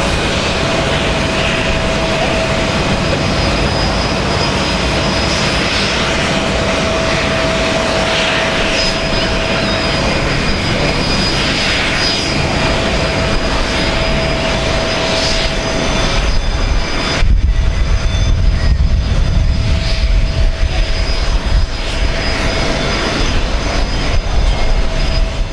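Boeing 777-200 jet engines running loud and steady, a dense rush with a thin steady whine. About two-thirds of the way in, the high part falls away and a deep rumble takes over.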